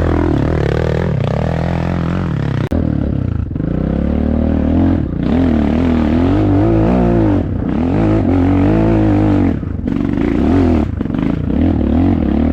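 Enduro dirt-bike engine revving hard in repeated rises and falls of pitch, with a brief break about three seconds in.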